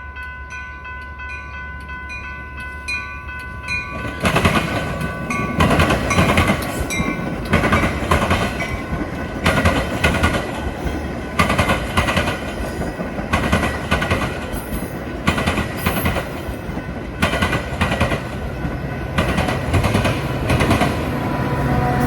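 A train horn sounds a held chord, then a train passes close by, its wheels clacking loudly and repeatedly over rail joints above a steady rumble.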